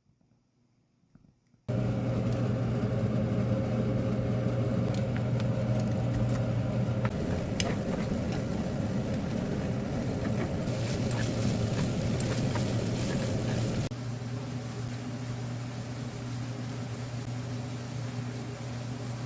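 A kitchen appliance running with a steady motor hum and a few light clicks. It starts suddenly about two seconds in and gets somewhat quieter near the end.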